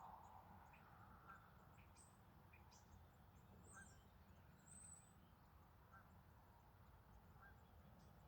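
Near silence, with faint scattered bird chirps and calls over a low background rumble.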